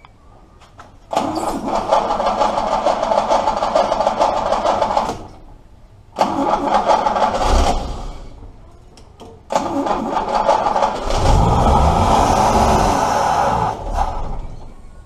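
FJ Holden's grey-motor straight-six being cranked by the starter in three attempts, about four, two and four seconds long, with pauses between them. It is a first start after sitting four or five years on a new battery. The pitch rises and falls near the end of the last attempt, and none of the attempts settles into a steady idle.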